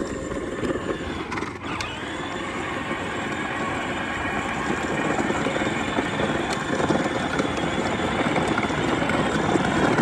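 Ride-on toy John Deere tractor running, a steady motor hum with its wheels rolling over the ground.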